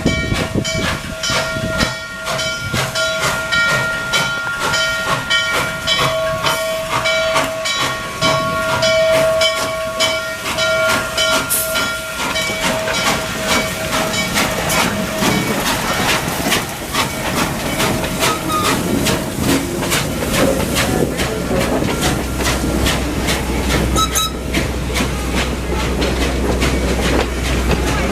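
Strasburg Rail Road steam train going by. For the first half a steady ringing with regular strikes about twice a second, the locomotive's bell. It fades, then steam hiss and a low rumble build as the train passes.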